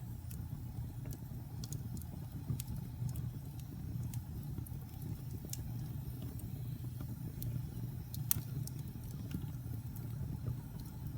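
Fire burning in a fireplace: a steady low roar with scattered sharp crackles and pops, the loudest pop about eight seconds in.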